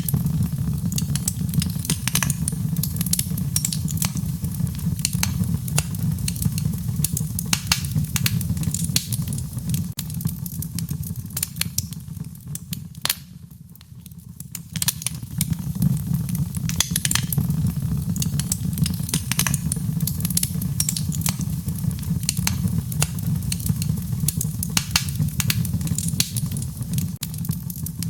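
Wood fire crackling, with many sharp pops and snaps over a steady low rumble; it dips briefly quieter about halfway through.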